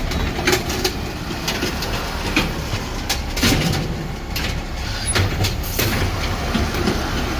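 Electric garbage truck's packer running, a steady mechanical drone with frequent sharp knocks and clatter as green waste is compacted.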